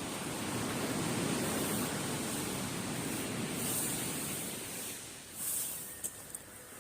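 Waves washing onto a beach: a swell of surf noise that builds over the first few seconds and then eases off. A few faint crackles, typical of a campfire, come near the end.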